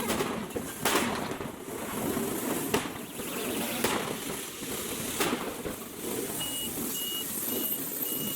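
Large fire burning with a steady rushing noise and several sharp cracks and pops at irregular intervals. Near the end, a run of evenly spaced high beeps sounds over it.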